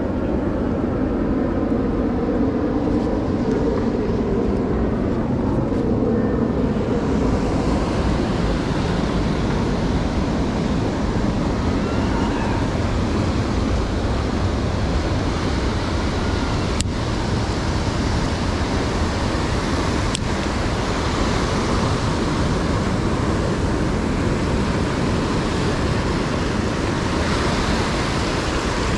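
Surf breaking and washing on the beach, with wind on the microphone. For the first several seconds an aircraft's engine drone passes over, falling in pitch as it fades.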